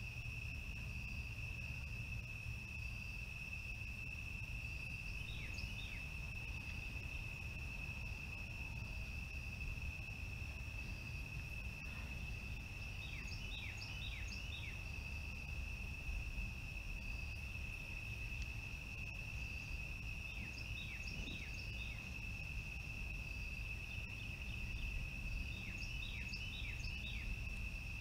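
A steady high-pitched tone over a low background rumble. A bird calls in four short runs of quick falling notes: about five seconds in, twice in the middle, and near the end.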